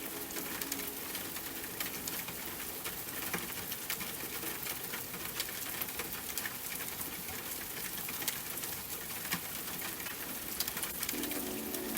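Steady rain with many individual drops pattering sharply on a surface. Soft music notes come back in near the end.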